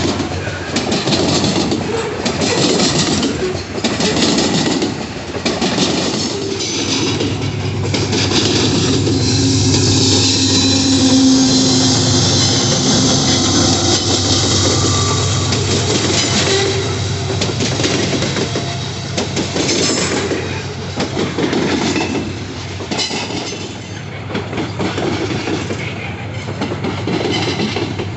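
Train passing through a rail yard: wheels clicking over the rail joints in a steady repeating rhythm, with a low diesel drone in the middle stretch. Metal wheels squeal high on the rails for several seconds in the middle.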